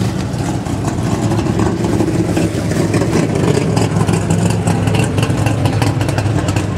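A car engine running steadily, with a low drone and many fast clicks and rattles over it.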